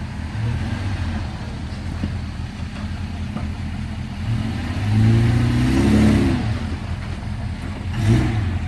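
An off-road 4x4's engine running at low revs while it crawls through rocks. It revs up harder for a couple of seconds about five seconds in, then gives a short rev again near the end.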